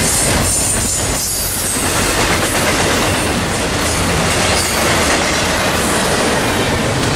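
Norfolk Southern intermodal freight train passing close by, its trailer flatcars and container well cars rolling on steel rails with a loud, steady noise of wheels on track.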